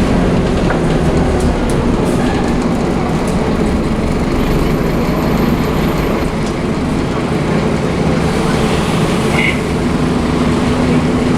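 Scania DC9-16 five-cylinder diesel engine of a Scania OmniCity double-decker bus running hard under load, a steady drone with occasional light clicks.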